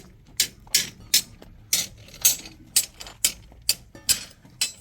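A run of about ten sharp knocks, roughly two a second at slightly uneven spacing, like hand hammering on a hard surface.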